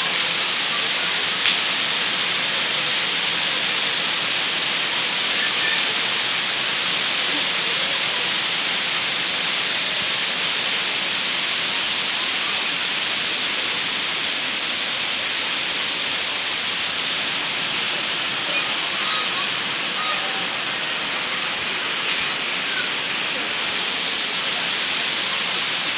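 Heavy rain falling steadily, a dense even hiss throughout.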